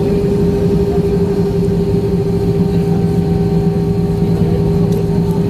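Steady engine hum and rumble inside the cabin of an Airbus A320-family airliner, with several even tones that neither rise nor fall.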